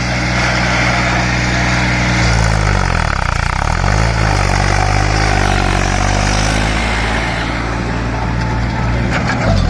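Tractor diesel engine pulling hard. Its speed sags about three seconds in and picks up again, then drops off sharply near the end.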